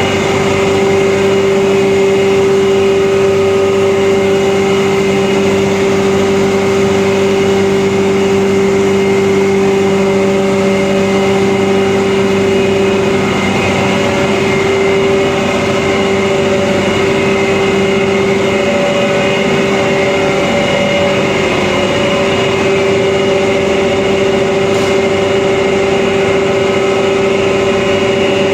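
Rice husk grinding machine running, a loud steady machine drone with a strong unwavering hum.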